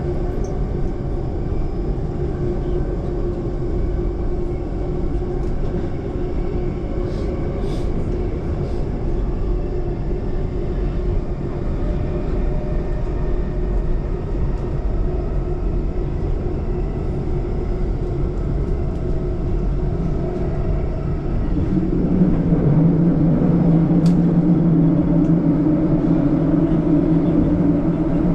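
Electric passenger train running, heard from inside the carriage: a steady rumble with a hum that grows louder about three quarters of the way through.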